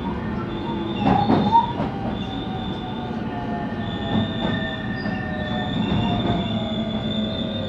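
Interior running sound of a JR West 223 series electric train's motor car: the traction motor and inverter whine falls steadily in pitch as the train slows, over the rumble of the wheels. There is a cluster of rail-joint knocks about a second in.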